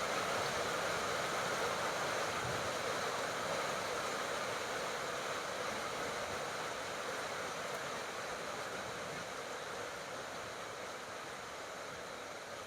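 Rain falling, an even hiss that slowly grows quieter.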